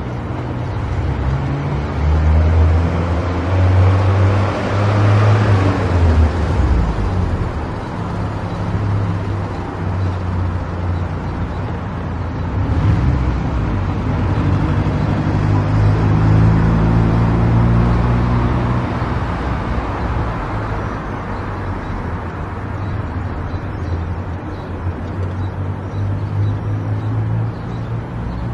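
A car being driven: engine running and road noise, the engine note stepping up and down through the low range, loudest a few seconds in.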